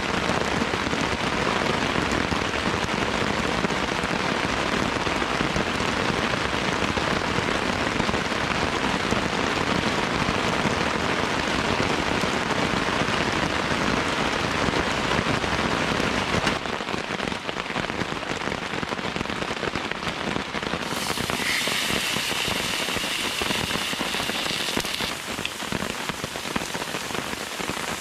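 Heavy downpour of rain, a dense steady hiss of drops. The sound changes abruptly about two-thirds of the way through, losing its low rumble, and the rain carries on.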